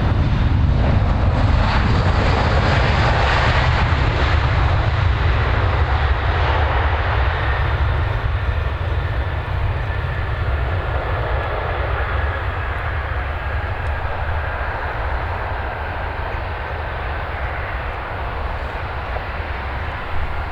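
Airbus A320-214 with CFM56 jet engines, its engine noise loudest a few seconds in and then slowly fading as the landing airliner passes.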